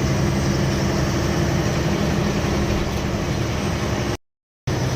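Lorry's diesel engine running steadily under way, with road noise and a low, even hum. The sound cuts out completely for about half a second near the end.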